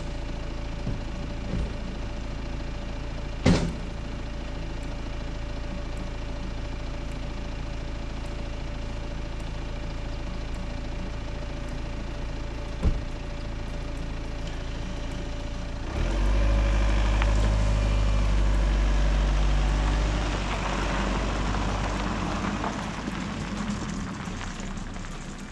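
A motor vehicle engine running steadily, with a couple of short knocks. It grows louder about two-thirds of the way through, then eases off toward the end.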